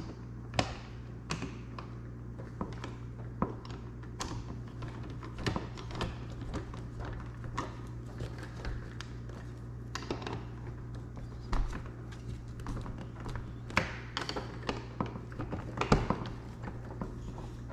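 Irregular small metallic clicks, taps and light thunks of a lock cylinder and its key being handled and worked during a rekey, over a steady low hum.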